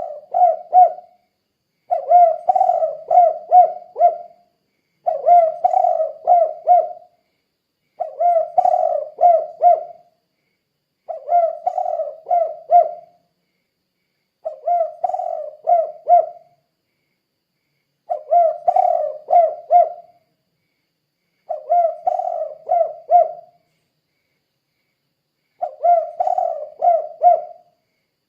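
Spotted dove (tekukur) singing its cooing song over and over: each phrase is a quick run of four or five low coos lasting about two seconds, with a pause of about a second between phrases.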